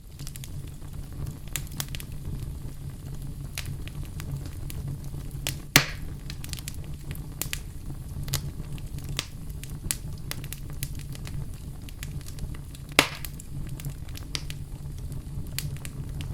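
Wood fire in a fireplace crackling, with a steady low rumble of flame under frequent small crackles and two louder sharp pops, one about six seconds in and one about thirteen seconds in.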